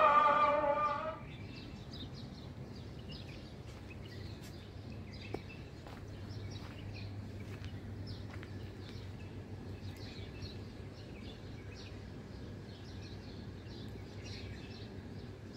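Instrumental music fading out about a second in. After it, many small birds chirp over a low, steady outdoor hum.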